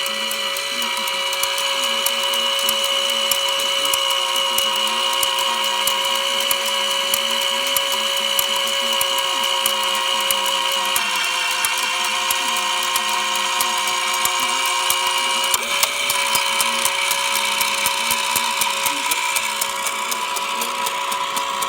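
A Collins R-391/URR receiver's motor-driven Autotune channel-selection mechanism running: a steady motor whine with rapid ratcheting clicks as it drives to a new preset channel. The pitch of the whine shifts about 11 seconds in and again about 16 seconds in.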